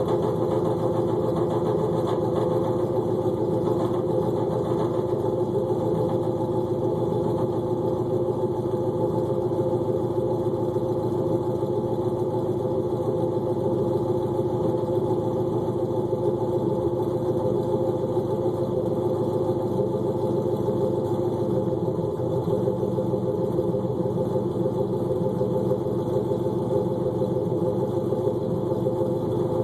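LQ9 6.0-litre V8 with an LS6 camshaft idling steadily as it warms up from a cold start. It breathes through long-tube headers, an off-road Y-pipe and a Magnaflow cat-back exhaust.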